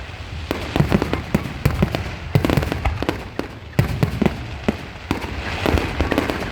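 Aerial fireworks bursting in quick succession: a rapid run of sharp bangs and crackles, several a second, over a low rumble.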